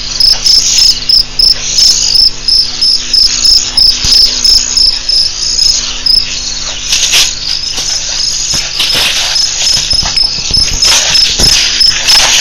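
A cricket chirping in rapid, evenly spaced high-pitched pulses, with a faint steady low hum beneath and a few soft knocks or rustles in the second half.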